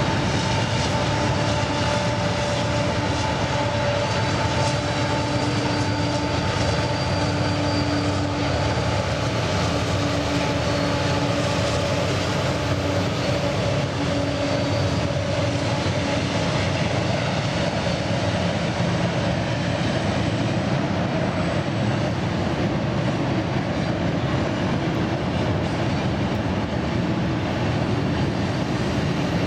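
Canadian Pacific freight train passing: the hum of its diesel locomotives, with a few held engine tones that fade out about halfway through, over the steady rumble of freight cars rolling on the rails.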